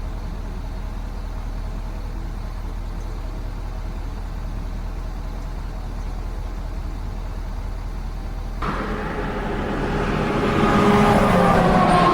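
Truck engine idling steadily. Near the end it revs up as the truck pulls off and grows louder, the engine pitch rising.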